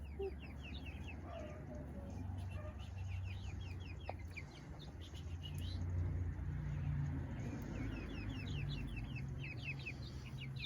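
Young chickens peeping, rapid runs of short high chirps that come in two bursts, one early and one in the last few seconds, over a steady low rumble.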